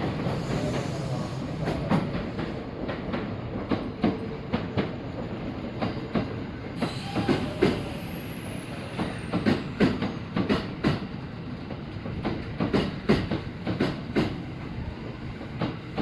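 Kintetsu electric train running on the rails, its wheels clacking irregularly over rail joints and points, the clacks coming thicker in the second half. A faint high whistle falls in pitch about eight seconds in.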